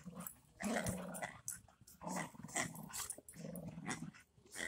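Boxer dog play-growling over a toy, in about three low, rumbling stretches of half a second to a second each.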